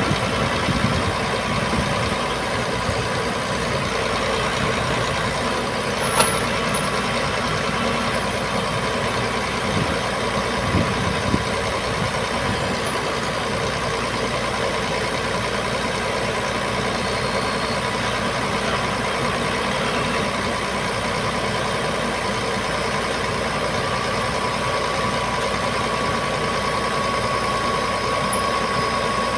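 Boom truck's diesel engine running steadily, with a single sharp metallic clank about six seconds in.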